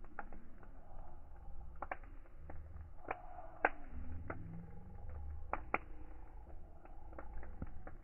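Fire crackling: irregular sharp pops and snaps, a few louder ones in the middle, over a low, steady rumble of flames.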